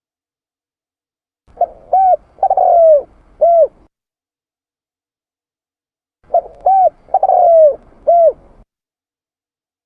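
Spotted dove cooing: two phrases, each of a few short coos and one longer, falling coo, about five seconds apart, with dead silence between them as in a looped lure recording.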